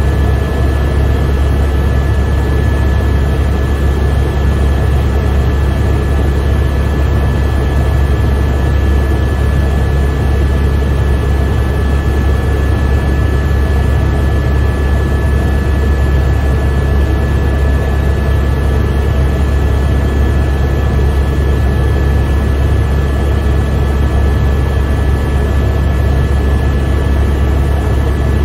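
Helicopter in steady flight heard from inside the cabin: a loud, constant low rotor drone with several steady high whining tones over it.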